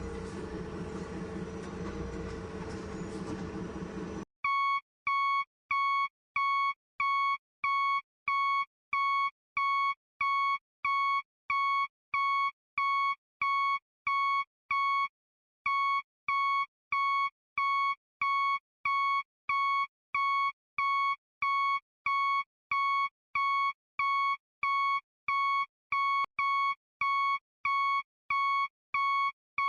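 A vehicle rumble cuts off abruptly about four seconds in and gives way to steady electronic beeping: one high tone repeating about twice a second, like a reversing alarm, with a brief pause about halfway through.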